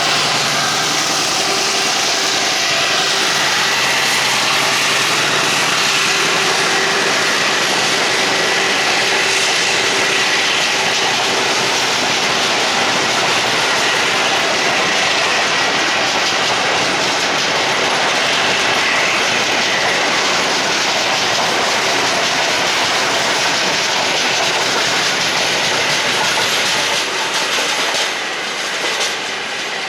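Loaded cereal freight wagons rolling past steadily, with wheel-and-rail noise, clickety-clack over the rail joints and a faint wheel squeal. The sound drops a little near the end as the train draws away.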